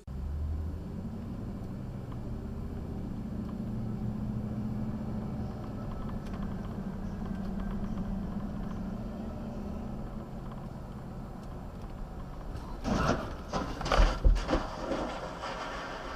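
Car engine running steadily, then a cluster of loud knocks and bangs about thirteen to fifteen seconds in, typical of a collision.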